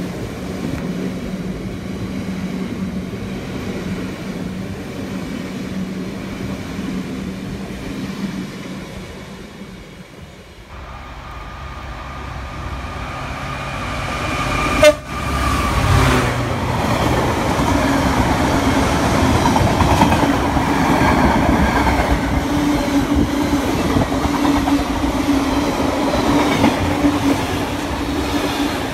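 Freight wagons rumbling and clattering past on the rails. After a break about ten seconds in, a diesel freight locomotive sounds a long horn as it approaches. A sharp loud blast comes about fifteen seconds in, and then the engine passes and a long train of wagons clatters by, louder.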